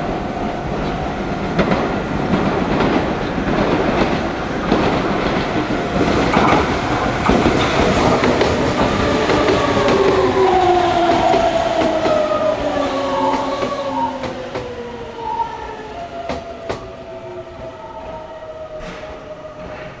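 Meitetsu electric train running past, wheels clattering over the rail joints, loudest about halfway through. In the second half, as it fades, its motor whine falls slowly in pitch.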